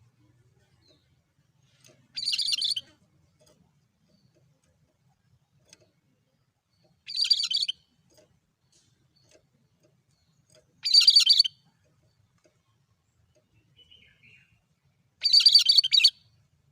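Cucak kerinci songbird calling: four short, alike, high phrases, each under a second, repeated about every four seconds in a monotonous rhythm.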